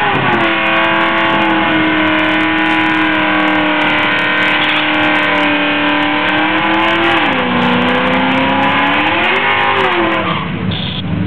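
2002 Ford Mustang GT's 4.6-litre two-valve V8 with aftermarket heads and cam, held at steady high revs in a burnout while the rear tyres spin and squeal. About seven seconds in the revs drop, flare once more, then fall back to idle near the end.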